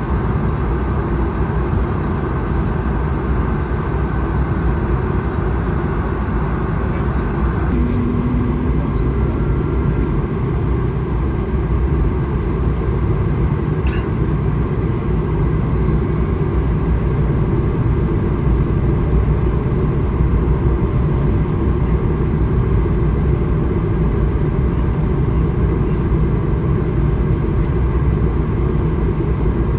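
Steady in-flight cabin noise of an Airbus A220-300: a continuous rush of airflow over the fuselage and the drone of its Pratt & Whitney PW1500G geared turbofan engines, heard from the front-row window seat.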